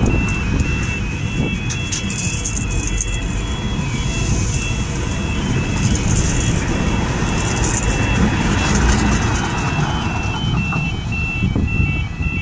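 Tyne and Wear Metro train passing over a level crossing: a steady rumble of wheels on rail with a few clacks a second or two in, under the crossing's two-tone warbling warning alarm.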